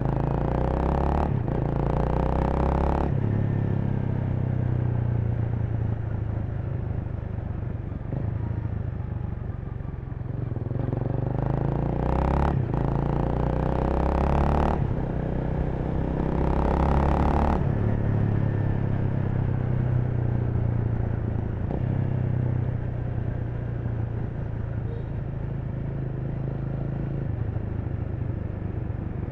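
Honda Rebel 300's single-cylinder engine running in city traffic, its pitch stepping up and down several times with throttle and gear changes, with several short bursts of noise over it.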